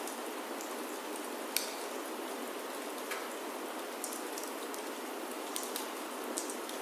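Steady rain on a wooden chalet roof, with a wood fire crackling in a fireplace: scattered sharp pops over the even hiss of the rain, the loudest about a second and a half in.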